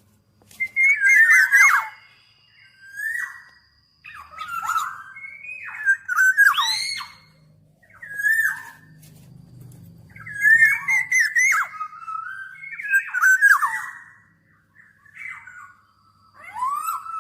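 Black-naped oriole (Oriolus chinensis) singing: short fluty whistled phrases that slide up and down in pitch, repeated every second or two, some mixed with harsh, scratchy notes.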